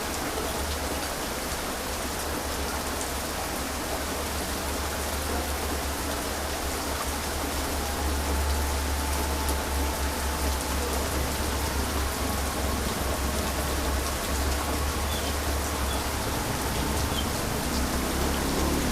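Heavy rain falling steadily, a dense even hiss of drops on surfaces, with a constant deep rumble underneath.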